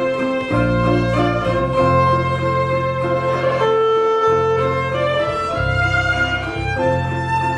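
Instrumental break in a folk-band song: a fiddle plays a sustained melody over guitar and low held notes that change every second or so.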